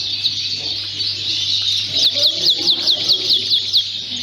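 Many Fife canaries singing together, with one bird's quick run of repeated falling notes, about six a second, starting about halfway through.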